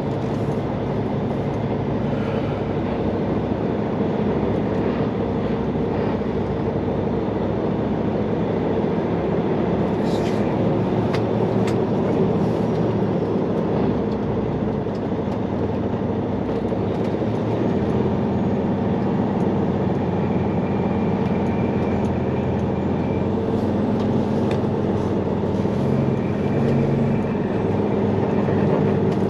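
Semi truck's diesel engine running steadily while the truck drives, a continuous low hum with road noise.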